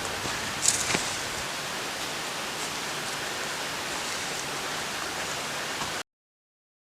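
Steady rush of running water, as from a forest creek, with a couple of sharp clicks about a second in. It cuts off suddenly near the end.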